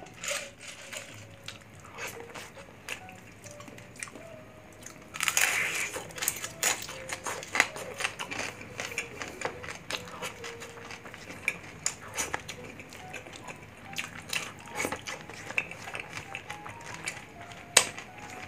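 Close-miked biting and chewing of crispy fried pork belly (bagnet) with crackling skin. It starts loudly about five seconds in and goes on as many sharp crunchy crackles, over faint background music.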